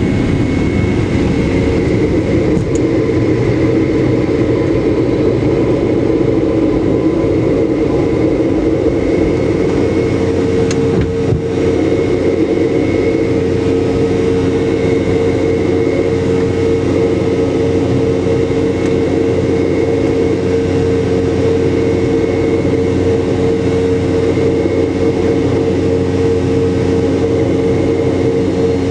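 Rolls-Royce BR715 turbofan engines of a Boeing 717, heard from inside the cabin as a steady drone with several held hum tones. The strongest hum grows firmer about a third of the way in.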